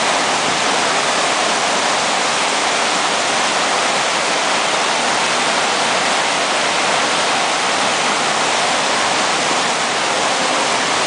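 Steady rush of fast-flowing river water at a standing wave, an even hiss with no engine note heard.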